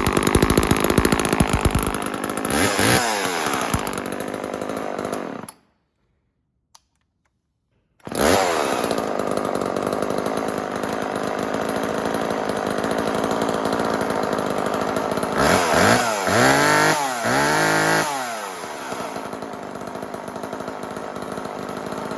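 Homelite Super 2 two-stroke chainsaw running, with a rev about three seconds in. The sound drops out completely for about two and a half seconds, then the saw runs on and is revved about three times in quick succession before settling back to a steady idle.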